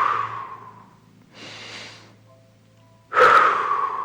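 A person breathing deeply and audibly while holding a stretch: a long breath fading out in the first second, a quieter breath about a second and a half in, then a sudden loud breath about three seconds in.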